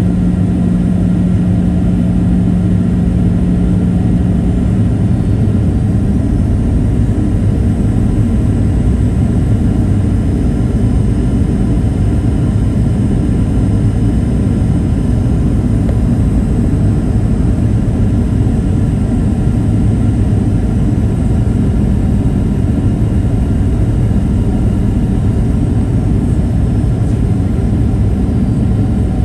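Steady cabin noise inside a Boeing 737-800 airliner in flight: the constant low drone of its CFM56-7B turbofan engines and the airflow over the fuselage. A steady low hum in the noise stops about five seconds in.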